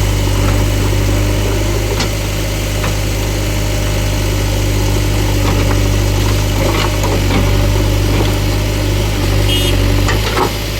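Heavy diesel engine of farm machinery running steadily at an even speed, with a few faint knocks over the top.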